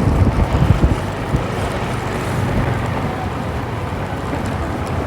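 Steady low rumble of a motorbike ride with wind on the microphone and street traffic. A few heavier gusts of buffeting come in the first second.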